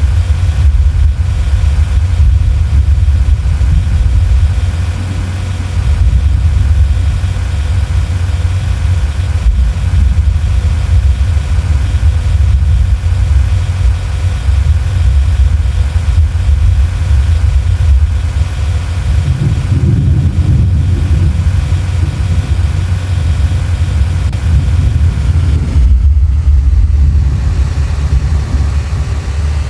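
Steady, loud low rumble of a motor vehicle with its engine running, heard from close by, most likely from inside the car.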